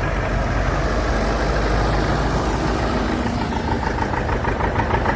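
John Deere tractor's six-cylinder engine running steadily as it drives past, with a deep rumble and a regular firing pulse.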